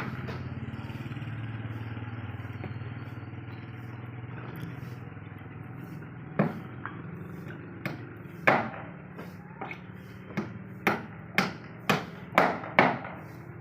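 Hammer blows at a construction site, sharp knocks over a steady low engine hum: a couple of single strikes, then a run of about six strikes at roughly two a second near the end.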